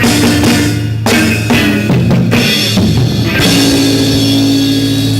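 Live rock band with a drum kit: a run of drum hits and fills over bass and guitar, then a chord held and ringing out from about three seconds in, as at the close of a song.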